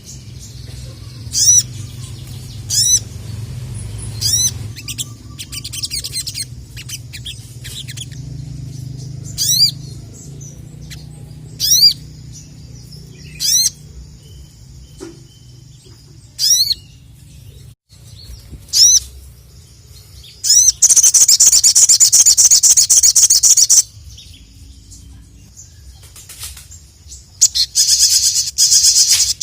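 A sogon (sogok ontong), a small nectar-feeding songbird, singing loudly: short, sharp, high notes that sweep down in pitch, repeated every second or two, then two loud bursts of rapid twittering, one lasting about three seconds from about twenty seconds in and one near the end.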